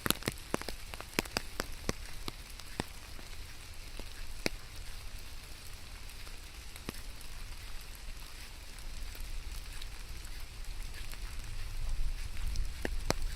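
Steady rain with heavy drops striking a surface close by in sharp taps, thickest in the first few seconds and scattered after. A low rumble swells near the end.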